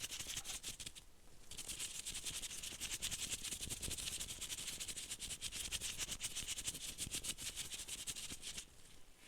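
Close-miked ASMR trigger: a fast, even run of crisp scratching or rattling strokes, about ten a second. It pauses briefly about a second in and drops away near the end.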